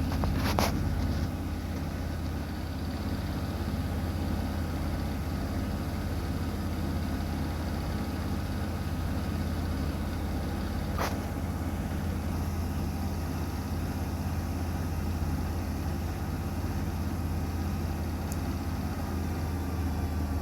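Miele front-loading washing machine running a cotton program with bath towels: a steady low motor hum with a few faint clicks.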